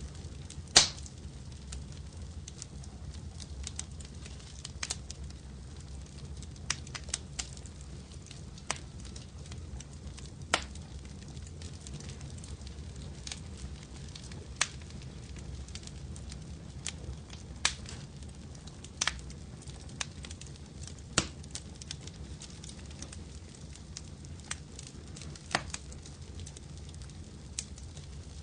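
Wood fire in a fireplace crackling, with irregular sharp pops every second or few, the loudest about a second in, over a steady low rumble.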